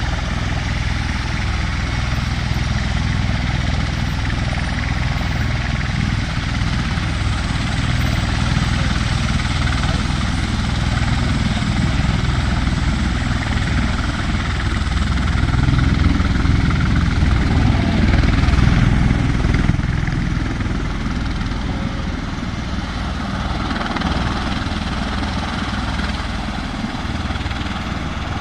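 Military helicopter flying, a steady rotor and engine rumble that swells louder in the middle and eases off again.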